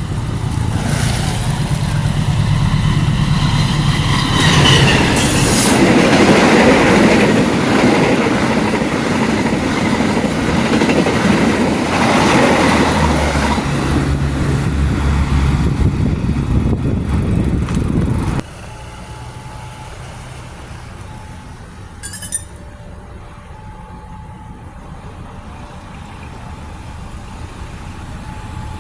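A long-distance passenger train passing close by: the locomotive's engine and the carriages' wheels clattering on the rails. It cuts off suddenly about 18 seconds in to a much quieter steady background with one short click.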